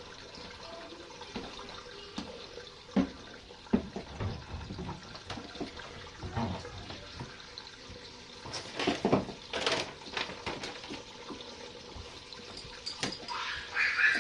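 Water running steadily, with a few sharp knocks and a burst of louder rustling and handling noise about nine seconds in.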